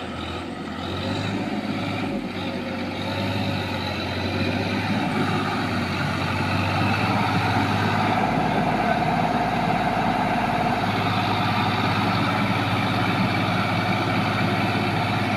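Tractor diesel engine running under load, growing louder over the first few seconds and then holding at a steady, high pitch.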